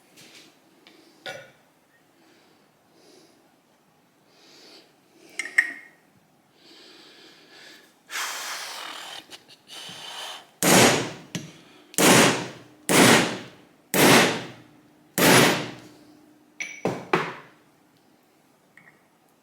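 Fork seal being hammered into a motorcycle fork leg: a few light knocks, then five hard blows about a second apart, with a low metallic ring lingering between them.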